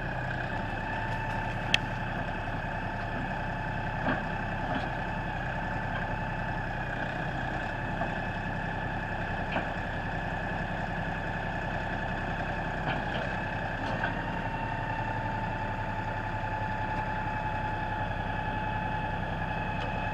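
LS compact tractor's diesel engine idling steadily, with a steady whine above the low engine note and a few faint clicks.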